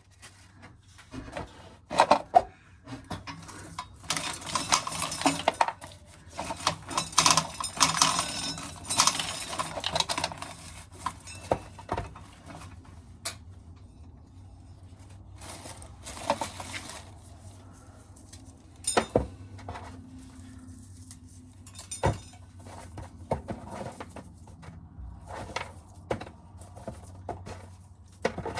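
Dry ear corn being shelled, the kernels rattling and clattering into a container in dense spells, with a few separate sharp knocks.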